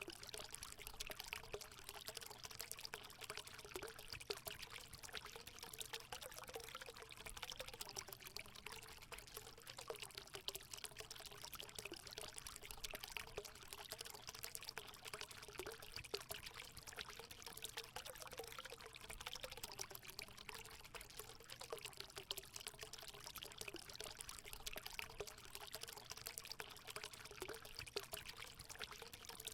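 Water pouring and trickling steadily into a hot spring pool, a continuous splashing with a faint wavering gurgle.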